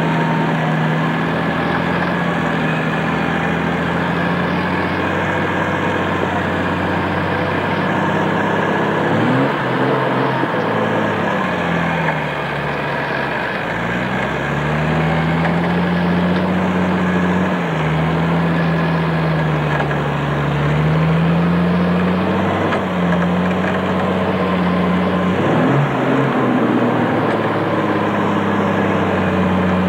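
Jeep CJ's engine running under load as it crawls across a steep slope, its revs sagging and picking up again several times, most deeply a little before halfway.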